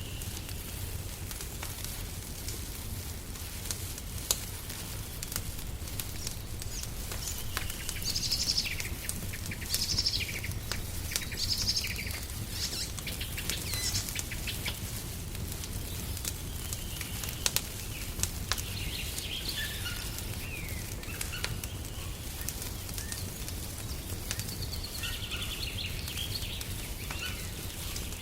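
Wood fire crackling in a fireplace, with sharp pops scattered throughout over a steady low rumble. Small birds sing in short bursts of chirps, first about a third of the way in and again through the second half.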